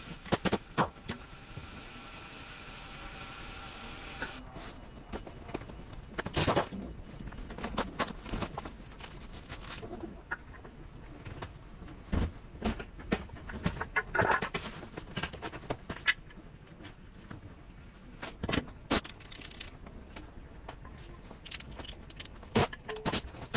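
Metal tools and brake parts clinking and knocking, with irregular sharp clicks throughout, as front brake pads and rotors are changed. A steady mechanical whine runs for the first four seconds, then cuts off suddenly.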